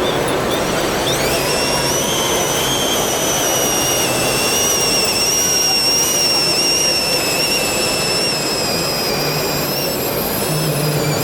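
Electric motors and gearing of a remote-controlled LEGO Technic pulling tractor whining. The pitch rises about a second in, then holds high with small wavers, over steady hall noise.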